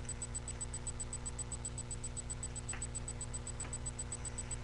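Steady electrical hum with a fast, even high ticking buzz, about seven ticks a second, from a webcam microphone's noise. A couple of faint, short rustles of paper being handled come about three seconds in and again a second later.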